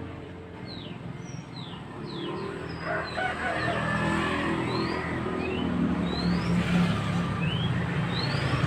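Mantenan bird song: short thin whistled notes, some sliding down and some sliding up, repeated about once a second, over a steady low rumble.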